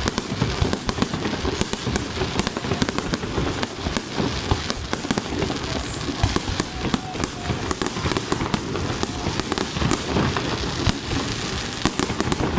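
Fireworks display: a dense, unbroken barrage of overlapping bangs and crackles.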